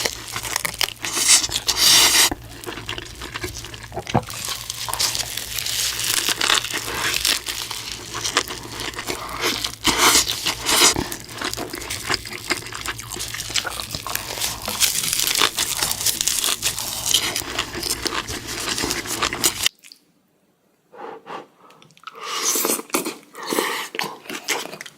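Close-miked eating sounds: dense crunching, crackling and tearing of big bites of food. They stop abruptly about 20 seconds in; after a second of silence, fainter eating sounds resume.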